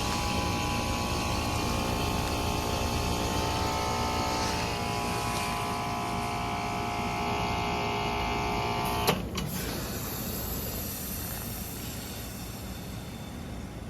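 Rheem Endeavor RP14 heat pump outdoor unit running with a steady whine and hum. About nine seconds in, a sharp clunk cuts the whine off and a fading refrigerant hiss follows, typical of the reversing valve shifting as the unit goes into defrost.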